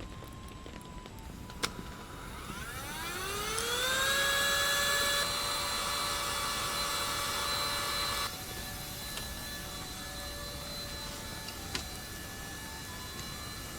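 A small electric motor spins up with a rising whine, then runs at a steady pitch, with its airy hiss dropping off suddenly about eight seconds in; a couple of light clicks.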